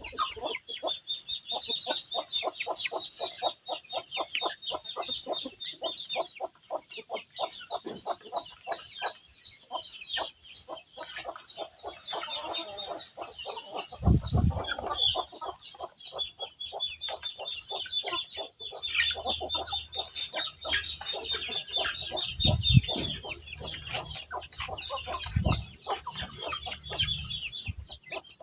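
Chickens clucking in rapid, repeated calls, with a few loud dull thumps partway through and near the end.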